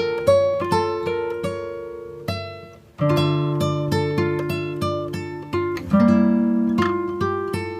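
Background music: acoustic guitar plucking and strumming chords, each note ringing and fading.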